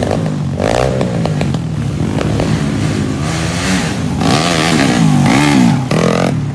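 Dirt bike engine revving up and down while riding, its pitch rising and falling with the throttle, a little louder about four to six seconds in.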